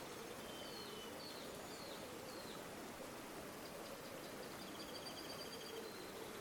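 River water flowing steadily, with birds calling over it: a few short falling chirps in the first couple of seconds, then a high trill around the middle.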